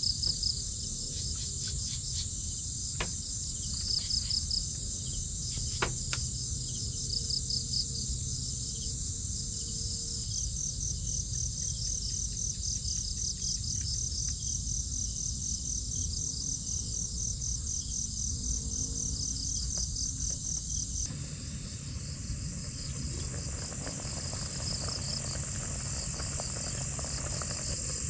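Insects chirping in a steady high chorus, with rhythmic pulsed trills that run fast and even for about ten seconds in the middle. A low steady rumble lies underneath, and there are a few faint clicks.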